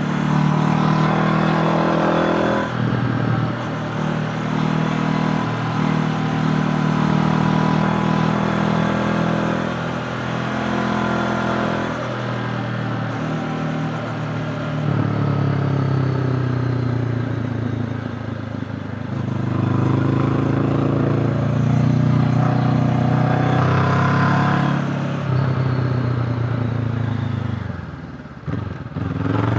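Honda CB500X's parallel-twin engine running under load as the motorcycle is ridden uphill. The engine pitch rises and falls several times with throttle and gear changes, and drops off briefly near the end.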